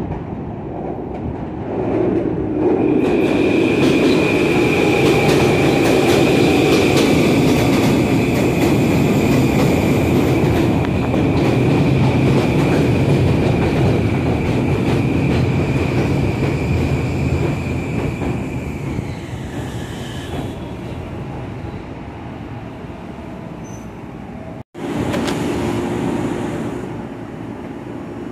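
Long Island Rail Road electric commuter train pulling into an elevated station: a loud rumble of wheels on the rails with a steady high whine. The whine slides down in pitch and stops as the train slows to a halt. A short burst of noise follows near the end.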